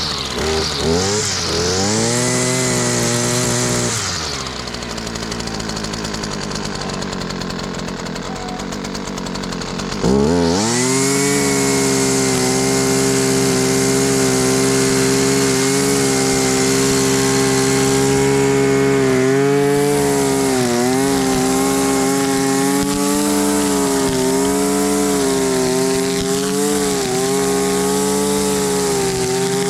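Husqvarna 326LD string trimmer's small two-stroke engine running and being revved: a few quick throttle blips, a rev-up about two seconds in, a drop to a lower speed, then a sharp rev-up about ten seconds in held at high speed with brief dips near the end.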